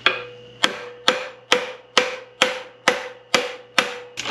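Hammer tapping steadily on a puller drawn snug against a stuck bearing in an SM465 transmission, about ten strikes two a second, each with a short metallic ring. The bearing is seized and is not coming free.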